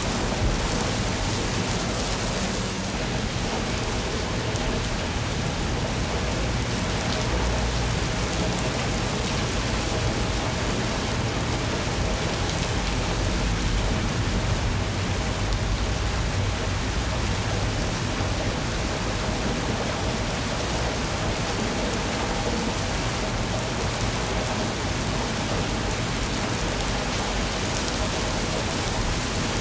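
Steady rain falling, an even hiss with a constant low rumble beneath it.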